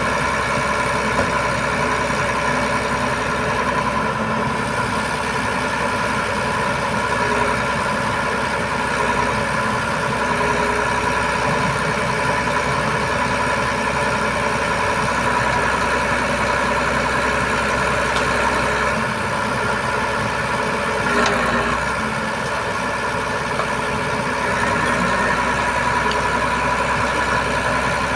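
Iveco Trakker 380 boom truck's diesel engine running steadily at a constant speed, with one brief knock about 21 seconds in.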